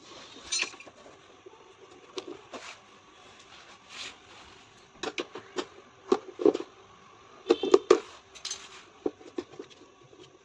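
Irregular metallic clinks and knocks of tools and metal parts being handled, in quick clusters about five seconds in and again between six and eight seconds in.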